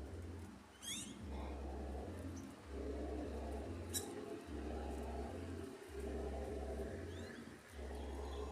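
A bird gives a short sweeping chirp about a second in and fainter chirps near the end, over a steady low rumble. A single sharp click comes about halfway through.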